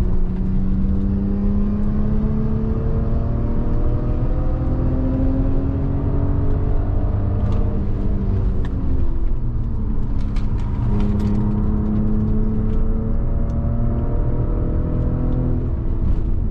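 Audi A6 3.2 FSI V6 heard from inside the cabin, pulling hard with its pitch rising, sagging about seven to nine seconds in, then climbing again, over heavy road and tyre rumble. A few light ticks come in the middle.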